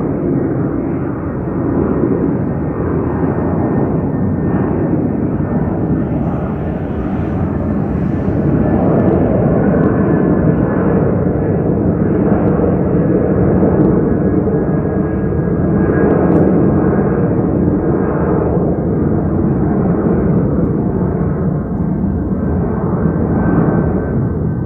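An airliner's engines passing overhead: a steady, loud rumble that swells from about eight seconds in and eases near the end.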